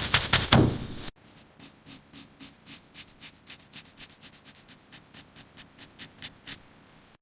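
Hand sanding on car bodywork: quick back-and-forth scraping strokes, about five a second. After an abrupt cut about a second in, the strokes are quieter, and they fade out near the end.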